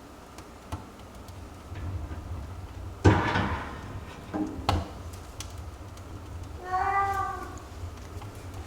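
A domestic cat meowing once near the end, a single short call. About three seconds in there is a sharp knock, the loudest sound, followed by a couple of smaller clicks.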